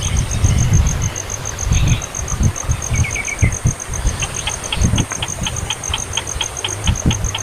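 A baby bird's short chirps, settling about halfway through into a steady series of high peeps, about five a second, over a loud low rumble and a steady pulsing insect-like trill.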